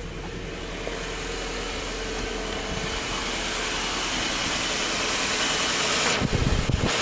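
Subaru Impreza Sport 2.0i-S's 2.0-litre flat-four boxer engine idling, a steady hum that grows gradually louder as the microphone moves from the cabin out to the open engine bay. Bursts of rough low noise come in near the end.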